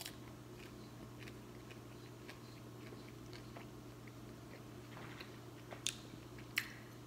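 Faint close-up chewing of crispy pan-fried potstickers, with small crunches and mouth clicks. Two sharper clicks near the end as the fork goes down to the plate.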